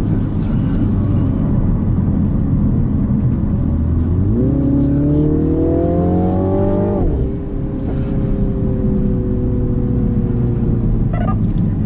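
MINI JCW Countryman's four-cylinder TwinPower turbo engine accelerating hard: about four seconds in the revs jump and climb steadily for about three seconds, then drop sharply and hold roughly steady, easing down slightly.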